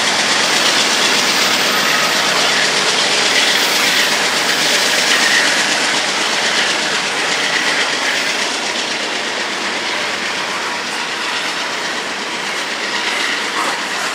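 Open-top coal cars of a Union Pacific coal train rolling past close by: a steady rumble and rattle of steel wheels on the rails with clickety-clack, easing slightly toward the end.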